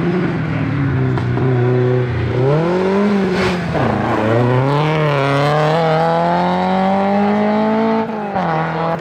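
Peugeot 205 Rallye's four-cylinder engine running flat out up a hillclimb, pitch climbing through each gear and dropping at the shifts about two and four seconds in, then one long steady rise before it falls away near the end.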